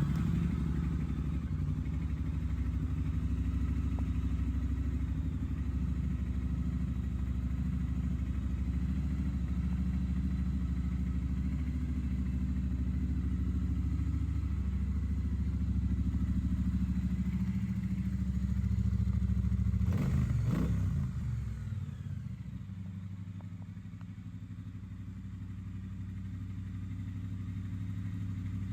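Triumph Speedmaster 1200's parallel-twin engine idling steadily. About two-thirds of the way through there is a brief clatter, after which the engine runs a little quieter and slowly builds again.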